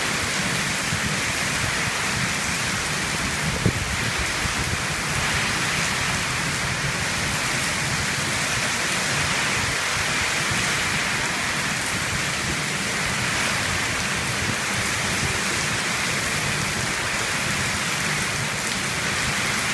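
Heavy rain falling steadily in an even downpour, with a single brief sharp knock a little under four seconds in.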